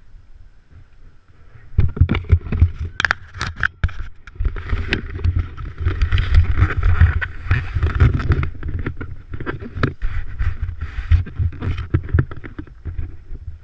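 Motocross bikes racing past, their engines running hard with rapid rises and falls. The noise comes in about two seconds in and fades near the end.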